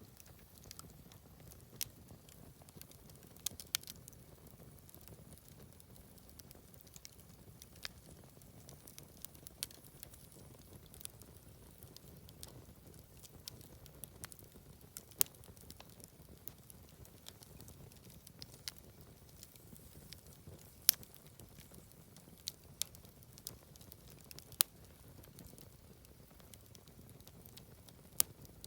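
Wood fire crackling and popping, with irregular sharp pops over a low steady hiss of burning.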